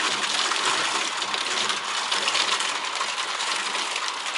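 Heavy rain mixed with hail: a steady hiss of rain with a dense, rapid clatter of hailstones striking.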